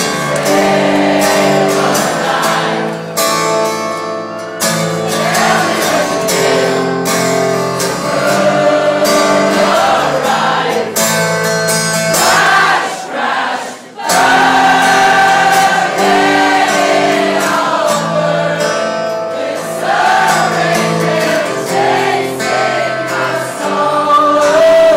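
Acoustic guitar strumming chords while a concert crowd sings along together, with a brief break in the music about halfway through.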